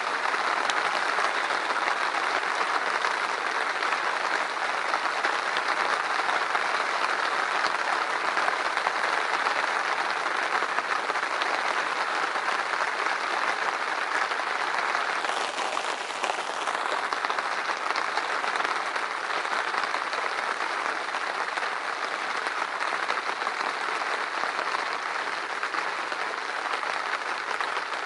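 Hard rain from a thunderstorm, a steady dense patter that does not let up.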